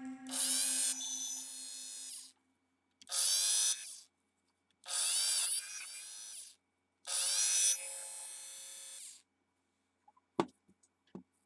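Dremel 4000 rotary tool's motor switched on four times, each time spinning up with a rising high-pitched whine, running on more quietly and then stopping. Two short clicks follow near the end.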